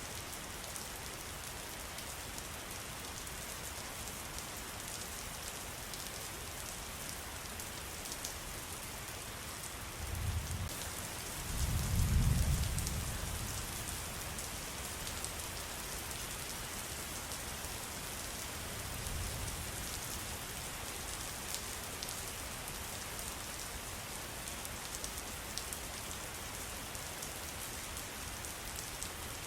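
Steady rain pattering, with many fine drop ticks. A low rumble swells and fades about ten to fourteen seconds in, and a fainter one comes near twenty seconds.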